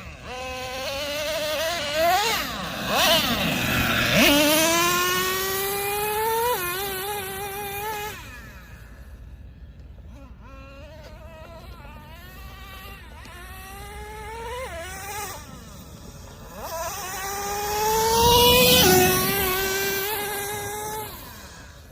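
Traxxas TRX 3.3 two-stroke nitro engine of an RC monster truck revving up as the truck accelerates past twice, loudest about four seconds in and again near nineteen seconds. Each run's pitch climbs and then drops suddenly as the two-speed transmission shifts up.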